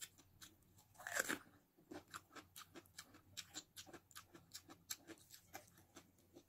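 Close-up mouth sounds of a person eating: a crunchy bite about a second in, then rapid crunchy chewing, about five chews a second, of raw onion eaten with rice and sardines.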